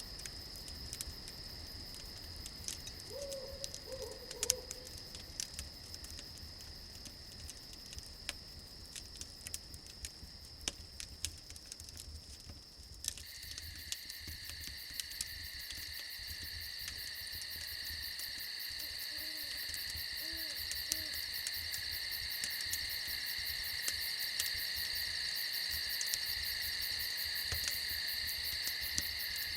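Crickets chirping steadily, with an owl hooting a few times and scattered crackling clicks from a fire in the first half. About halfway through, the cricket chorus thickens and gets louder.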